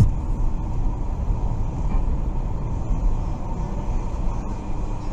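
Steady low rumble of a car's engine and tyres on the road while driving, as picked up by a dashcam.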